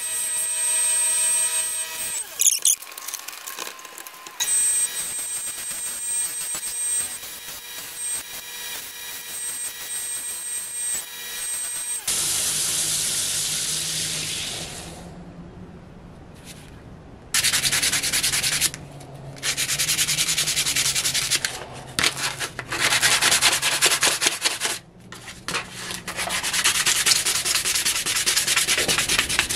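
Sanding, in long rasping passes with short pauses between them over the second half. The first part is a steady hum of fixed tones, like a small motor running.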